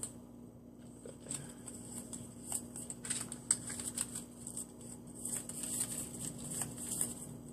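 Trading cards being handled on a tabletop: scattered light clicks and soft slides as cards are picked up, moved and set down.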